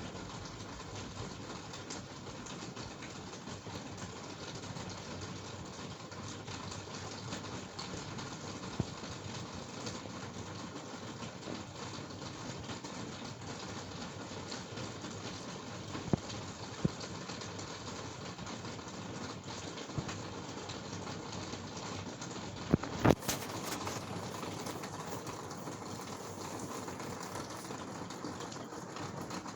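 Steady rain falling in an even hiss, with a few sharp taps past the middle and two louder knocks about three-quarters of the way through.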